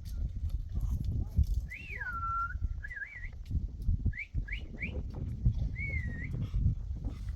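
Someone whistling a string of short gliding calls: one long falling whistle, a wavy one, three quick rising whistles, then another wavy one. A steady low rumbling noise runs underneath.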